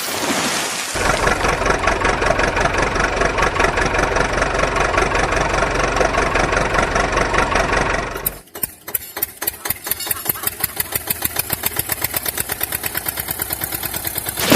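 A small engine running steadily, then about eight seconds in an abrupt switch to a rhythmic chugging whose beats come faster and faster.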